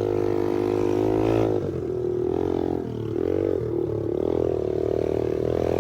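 Pit bike engines racing round the track, their pitch rising and falling as the riders roll off and back onto the throttle and shift, with a drop about a second and a half in and another rise and fall near the middle.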